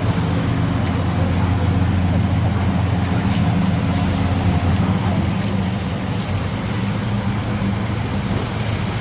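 Car engine idling steadily, its low hum running under a constant hiss, with a few faint clicks.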